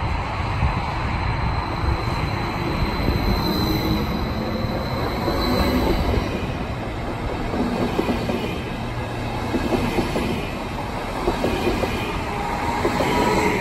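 Double-deck electric S-Bahn train running along the platform close by: a steady rumble of wheels on rails, with a faint high-pitched tone about three to five seconds in.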